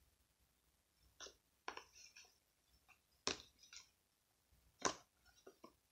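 Slime being squished and worked by hand, giving a scatter of faint, irregular wet clicks and pops.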